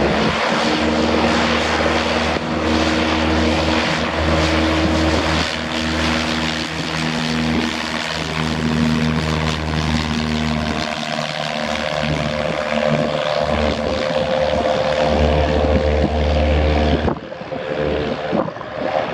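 Propeller airplane running close by, loud and steady, with several held engine tones that shift to a higher set about halfway through. The sound drops briefly near the end.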